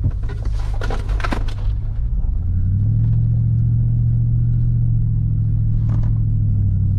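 A four-wheel drive's engine running under way, a steady low hum whose note steps up about two and a half seconds in and then holds. A cluster of clicks and rattles comes about a second in.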